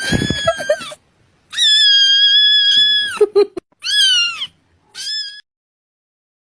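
Cat meowing: a series of high meows, one long held meow and then two shorter ones that fall in pitch at the end, stopping about five and a half seconds in.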